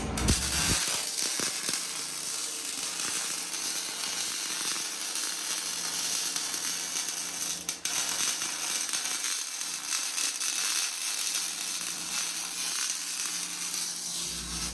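MIG welding arc on stainless steel, a steady crackling sizzle that breaks off for a moment about eight seconds in and then carries on.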